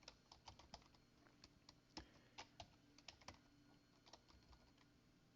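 Faint typing on a computer keyboard: an irregular run of keystrokes as a command is entered, stopping about four and a half seconds in.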